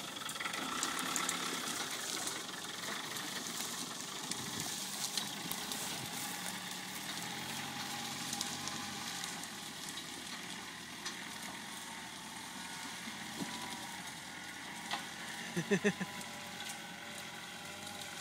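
Land Rover engine running at a distance as it drives off-road up a brushy slope, a fairly even hum under steady outdoor noise. Near the end there is a brief run of short pitched sounds.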